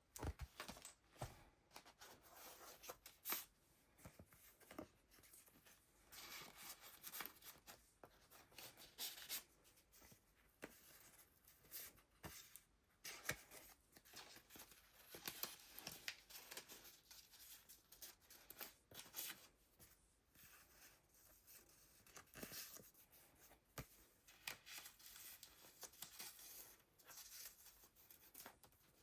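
Quiet rustling and crinkling of the pages of a handmade paper junk journal being turned and handled, with irregular light taps and clicks.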